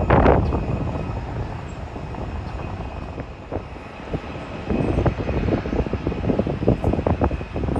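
Wind gusting on the phone's microphone, strong at the start, easing off, then buffeting again about five seconds in, over the steady hum of a distant jet airliner's engines.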